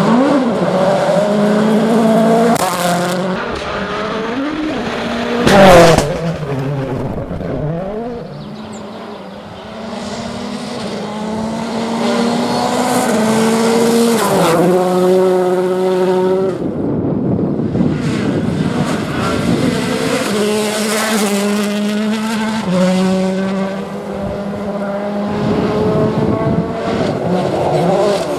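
World Rally Cars' 1.6-litre turbocharged four-cylinder engines at full throttle, climbing in pitch and stepping down with each gear change, with a sudden very loud burst about six seconds in.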